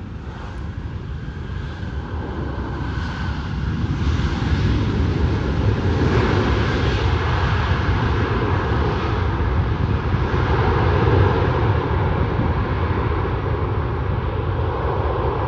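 Airliner engines passing near the airport, a heavy rushing rumble that builds over the first few seconds and then holds steady.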